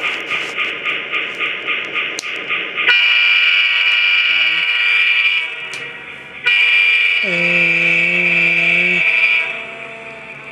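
Sound decoder of an HO-scale RS-10 diesel locomotive model playing its air-compressor effect, a rhythmic pumping about four or five beats a second. The pumping stops about three seconds in, and the diesel horn effect then sounds two long blasts.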